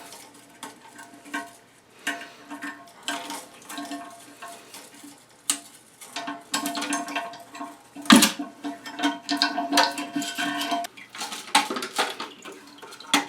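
Hard plastic knocks and clatter of toilet tank parts being handled and pulled loose by hand, in irregular bursts, with the loudest knock about eight seconds in.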